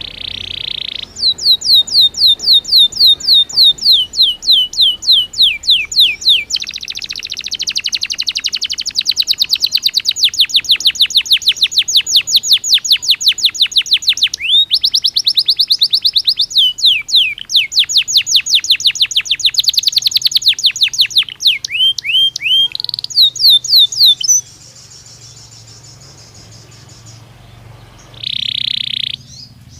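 Belgian canary singing: long trills of rapid repeated falling notes, some runs faster than others, broken by short pauses. The song stops about 24 seconds in, leaving a short call or two near the end.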